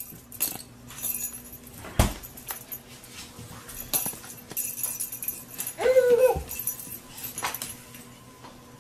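A dog whimpering, with one short high cry about six seconds in, among scattered knocks and rattles as it plays with a baby's toy.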